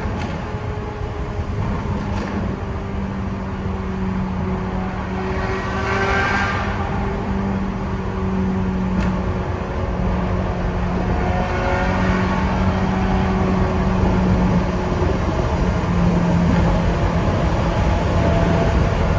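Ferrari F355's 3.5-litre flat-plane V8 running at a steady pace, its exhaust note holding a fairly even pitch and slowly growing louder toward the end.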